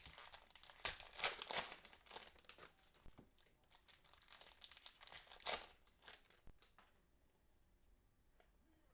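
Plastic cellophane wrapper of a trading card pack crinkling and tearing as it is opened and handled, in rapid crackling strokes that stop about seven seconds in.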